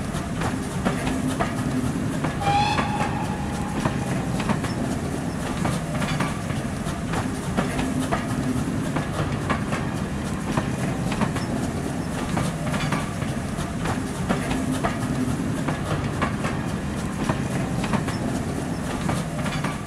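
A passenger train's coaches rolling past, a steady rumble with the repeated clicking of wheels over rail joints. A short whistle sounds about two and a half seconds in.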